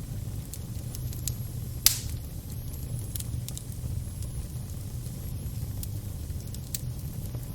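Fire crackling over a steady low rumble, with scattered sharp pops and one loud pop about two seconds in.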